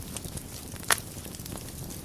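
Wood fire burning in a fireplace, crackling steadily with small ticks and one loud sharp pop about a second in.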